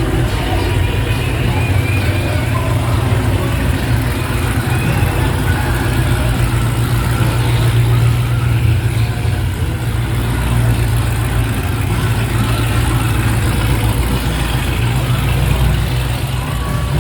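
Muscle car engines running at low speed, a steady low engine sound, with faint crowd chatter underneath.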